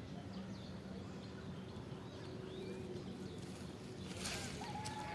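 Faint, scattered bird chirps over steady outdoor background noise with a low hum. About four seconds in there is a brief rush of noise.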